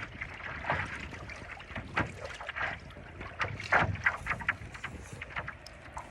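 Choppy seawater splashing around a paddleboard and its paddle, in irregular splashes, with wind buffeting the microphone.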